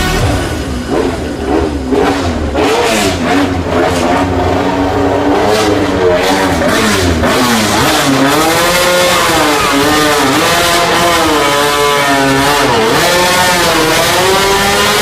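MotoGP racing motorcycle engine revving hard, its pitch climbing and dropping again and again as the throttle is worked.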